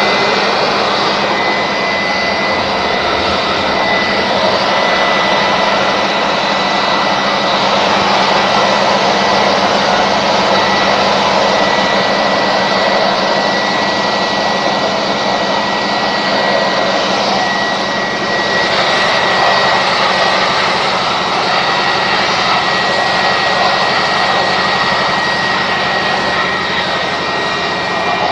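Electric air blower running steadily, a high whine over loud rushing air, blowing dust out of a note counting machine.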